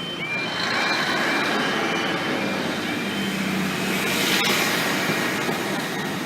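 Train passing over a level crossing: a steady rush of engine and wheel noise that swells to its loudest about four seconds in. The crossing's repeating two-tone warning alarm fades under it near the start.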